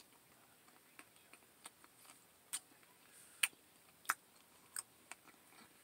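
Soft, irregular wet clicks and smacks of a mouth chewing spicy lentil chili. There are about a dozen, short and sharp, the loudest in the middle stretch.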